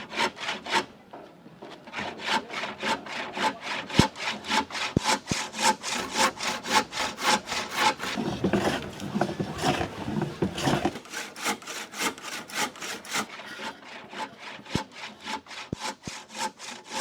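Hand saw cutting through wood in steady back-and-forth strokes, about three a second, with a short pause about a second in.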